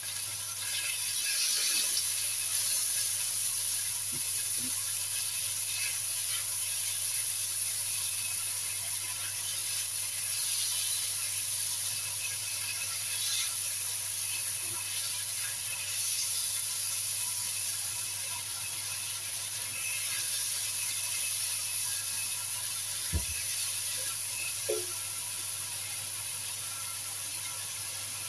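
Sliced bitter melon and beef sizzling in hot oil in a wok, a steady frying hiss that grows a little louder about a second in as the beef goes in. A low hum runs underneath, and there are a couple of soft knocks near the end.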